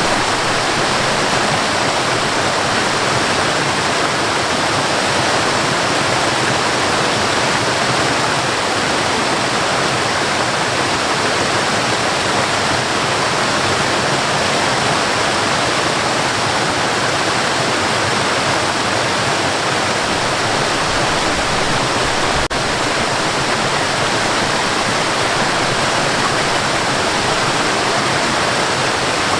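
Waterfall: a steady, even rushing of falling water with no change in level. There is one faint tick about three-quarters of the way through.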